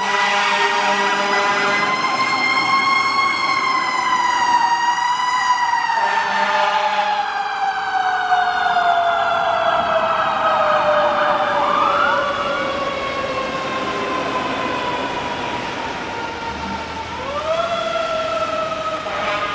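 Fire engine siren sounding on an emergency response. Its wail rises a little, then falls slowly in pitch over about ten seconds, and winds back up near the end. Short steady lower tones cut in near the start and about six seconds in.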